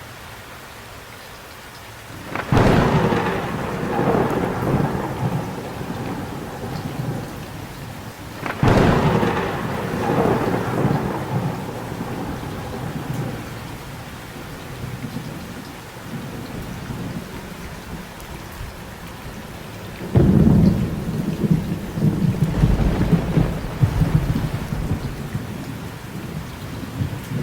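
Thunderstorm: steady rain with three claps of thunder, a few seconds in, about a third of the way in and about three quarters of the way in. Each starts with a sharp crack and rolls off into a rumble; the last is the loudest and rumbles on with further swells.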